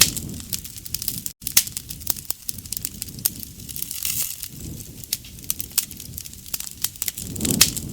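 Wood fire crackling and popping in quick, irregular snaps, with a low rumble swelling up near the start and again near the end. The sound cuts out for an instant about a second and a half in.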